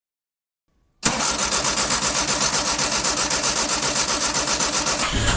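The 1953 Corvette's Blue Flame inline-six engine starts suddenly about a second in and runs with a fast, even beat. Just before the end the sound shifts and a low steady hum comes in.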